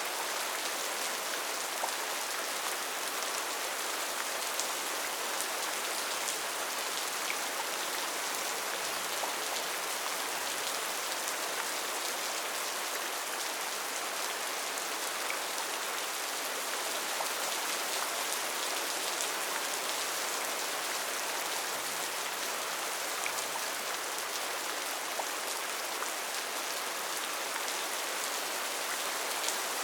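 Rainforest rain falling steadily: an even hiss with many individual drops ticking through it.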